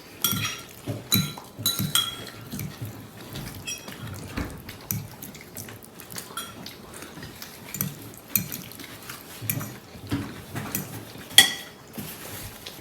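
Cutlery clinking and scraping against bowls and plates while eating: scattered short clinks, some with a brief ring, the sharpest about eleven seconds in.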